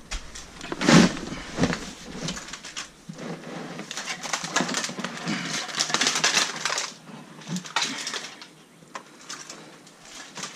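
Rustling and clattering of plastic electronics gear and cables being handled, with sharp clicks and knocks, busiest about a second in and again in the middle.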